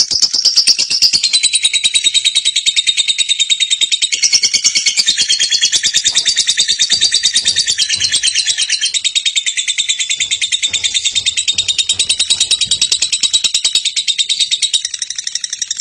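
Lovebird in a long, unbroken ngekek: a rapid, rattling chatter of high, shrill notes repeated many times a second, holding steady without a pause.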